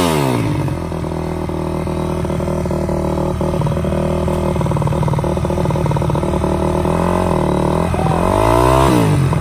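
Dirt bike engine running: a rev dropping back right at the start, a steady idle, then revved up again near the end. The bike's clutch is slipping.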